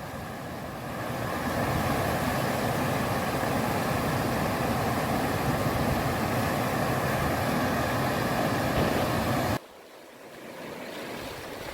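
Heavy rain and wind in a downpour, a steady rushing noise. About ten seconds in it cuts to a quieter stretch of the same kind of noise.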